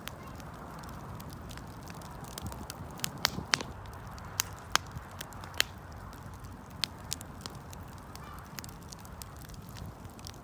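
Wood fire burning: irregular sharp crackles and pops of the burning wood over a steady low rush of the flames, with a busier run of snaps in the middle.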